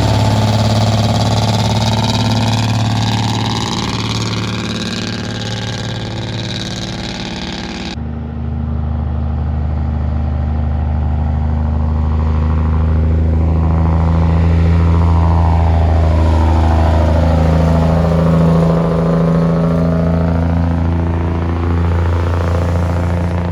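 Heavy trucks' diesel engines running steadily as they go past on a highway hill, with tyre noise and pitch sweeping as vehicles pass. The sound changes abruptly about eight seconds in.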